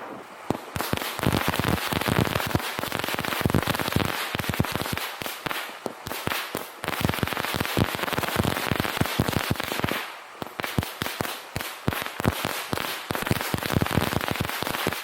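Consumer fireworks going off in a rapid, dense stream of bangs and crackles, several a second, with a brief lull about ten seconds in. The sound stops suddenly near the end.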